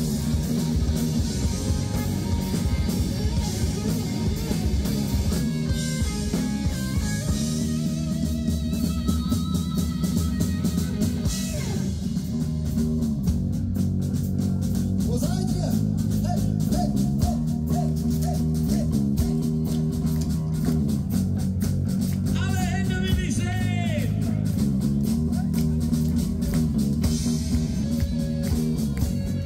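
Rock band playing an instrumental passage: electric guitar lines over bass and a steady drum beat.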